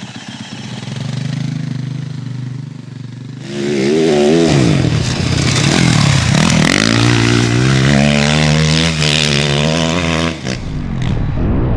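Dirt bike engine running low, then revving hard from about three and a half seconds in, its pitch climbing and falling repeatedly over a rush of noise. It drops off suddenly near the end and carries on at a lower pitch.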